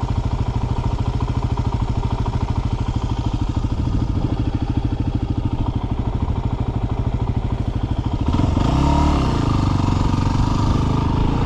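Dirt bike engine running steadily at low revs. About eight seconds in, the revs rise and fall once, and the engine then runs on a little rougher.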